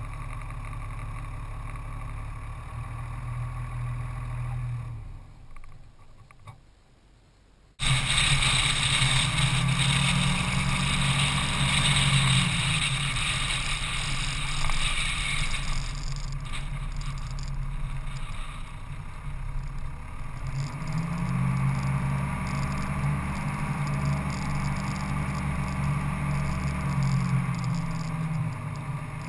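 Motorcycle engine idling, fading away about five seconds in; then, after a sudden cut, the engine running under way with wind noise on the microphone, its revs rising and falling twice while riding over sand and dirt track.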